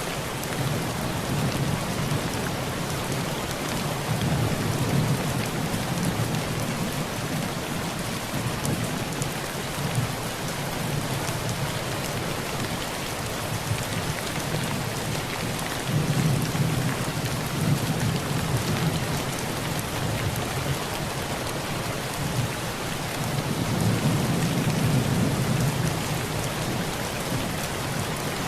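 Heavy rain falling on a tin roof as a steady dense hiss, with low rolls of thunder swelling about four seconds in, again about halfway through, and once more near the end.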